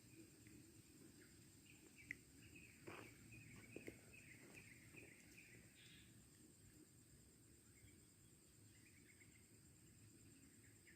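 Faint rural ambience: a steady high insect drone with many small-bird chirps, busiest in the first half and thinning out later.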